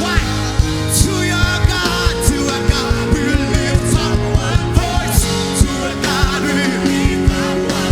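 Church worship band music with a steady beat of sharp strokes, held chords and a wavering singing voice.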